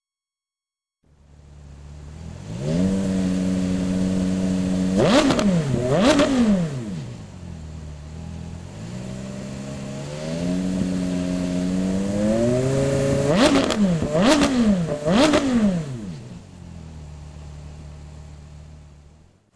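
Porsche Carrera GT's V10 engine through an AWE Tuning aftermarket exhaust, idling and being revved. Twice it climbs to a held higher rpm, gives a few sharp throttle blips, then falls back to idle. The sound cuts off suddenly near the end.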